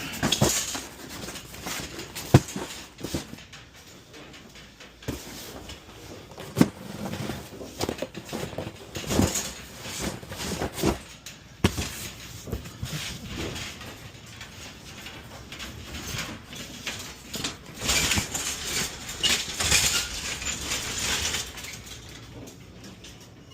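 Cardboard boxes being lifted and stacked from one cart onto another: scattered knocks and thuds with stretches of scraping and rustling, and rattles from the carts.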